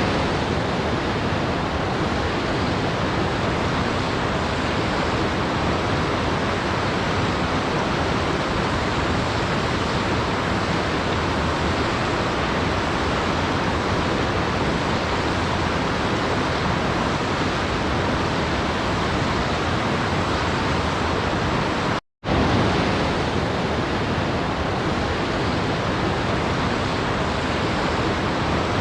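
Steady rushing of a waterfall, an even wash of water noise without variation. It cuts out for a fraction of a second about 22 seconds in, then resumes at the same level.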